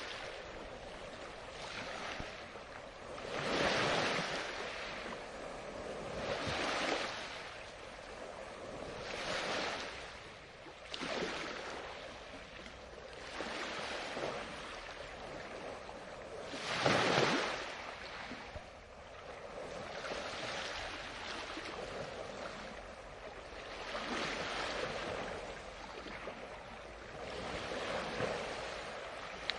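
Ocean waves breaking and washing on a beach, surging every two to three seconds with one larger wave about seventeen seconds in.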